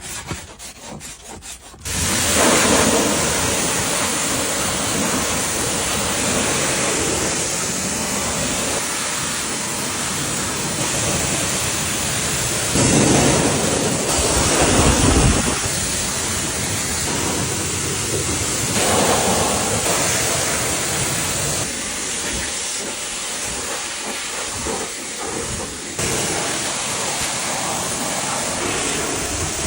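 A loud, steady hissing spray, most likely a high-pressure water jet, starts abruptly about two seconds in and runs on with swells as it is played over a surface. Before it starts there are short rubbing or scrubbing strokes.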